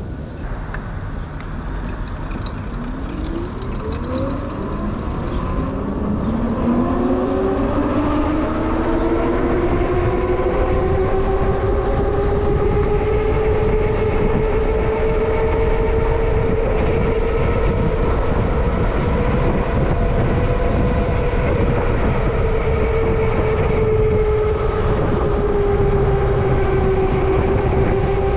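Electric motor of a Denzel Samurai e-bike whining under way: the whine rises in pitch and grows louder as the bike speeds up over the first several seconds, then holds steady at cruising speed with a slight dip near the end. Under it is a low rumble of wind and road noise.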